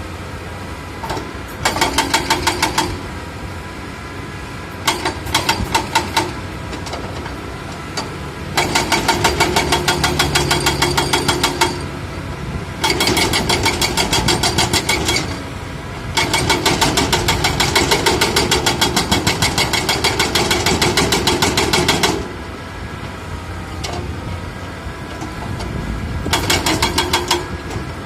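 Excavator-mounted hydraulic breaker hammering in bursts of rapid, evenly spaced blows, six bursts in all, the longest about six seconds; the excavator's diesel engine runs between them.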